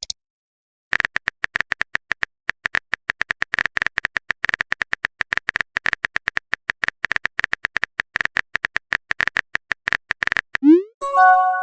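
Rapid, irregular clicking of a phone-keyboard typing sound effect for about nine seconds, as a message is being typed. Near the end comes a short rising swoop, then a brief chiming chord: a chat message-sent or notification sound.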